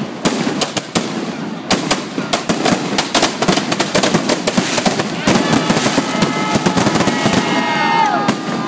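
Fireworks going off in a rapid, crackling barrage of many sharp pops and bangs. About halfway through, high whistling tones join in, several of them bending down in pitch as they end.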